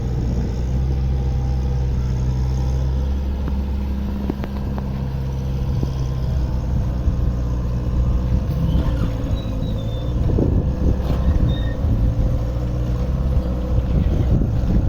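Kobelco mini excavator's diesel engine running steadily under working load, its note shifting as the hydraulics work, with a spell of knocks and rattles about ten seconds in.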